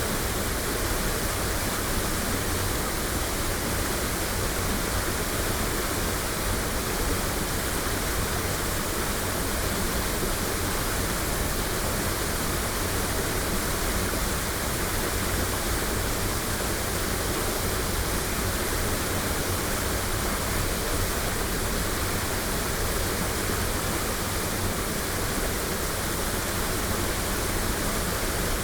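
Waterfall: water falling and splashing in a steady, even rush with no let-up, recorded binaurally.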